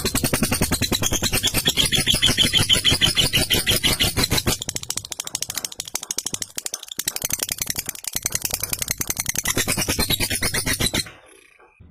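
Lovebird singing its long ngekek: a fast, rattling chatter of rapidly repeated notes. It weakens for a few seconds midway, then comes back and cuts off about eleven seconds in.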